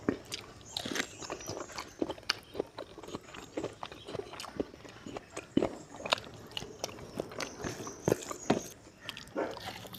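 Close-miked chewing and lip smacking of a person eating fried pork and rice by hand: a run of irregular wet clicks and smacks, several a second.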